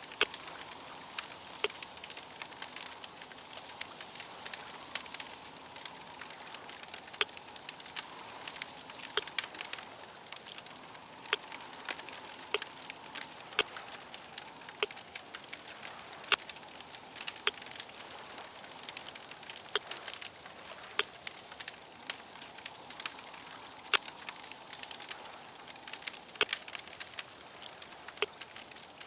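Fire crackling: irregular sharp pops and snaps, several a second, over a steady hiss.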